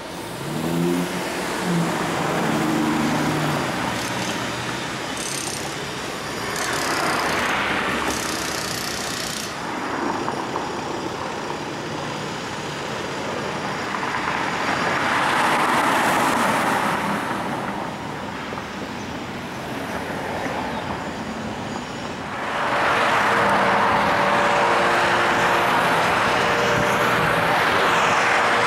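Aston Martin Virage's V12 engine pulling away, its pitch rising over the first few seconds. Then car engine and road noise swell and fade several times, the last swell running loud to the end.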